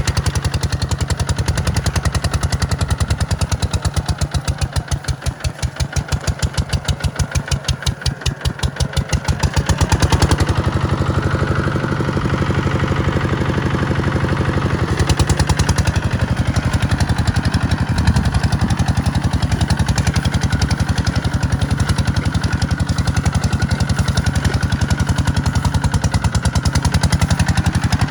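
Kubota tractor's diesel engine running with a steady, rhythmic firing beat. It slows to a lower, more spaced-out chug between about 4 and 9 seconds in, then picks up speed and gets louder again around 10 seconds in.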